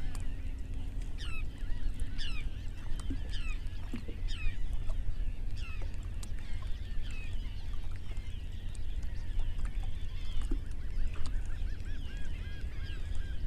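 Birds calling again and again in short, high, downward-sliding cries over a steady low rumble of wind on open water.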